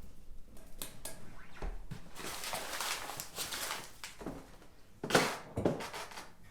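Kitchen utensils and dishes being handled: small clicks and a stretch of rustling and scraping, then a sharp knock about five seconds in.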